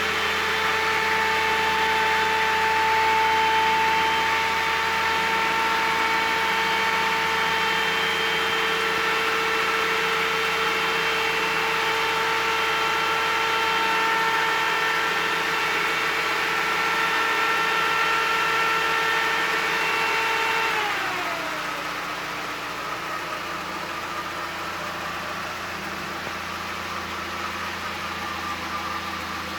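ZMZ-406 inline-four petrol engine running smoothly and evenly, typical of a well-tuned engine. It holds steady raised revs, then about two-thirds of the way through the revs fall back smoothly to a quieter, steady idle.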